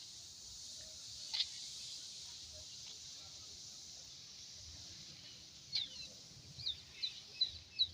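Small birds chirping outdoors: one short chirp about a second and a half in, then a quick run of chirps near the end, over a steady high-pitched hiss.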